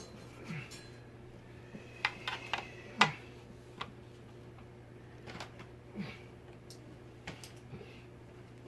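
Scattered light clicks and small metallic clinks of screws and ceiling-fan blades being fastened by hand, with a few louder ringing ticks about two to three seconds in.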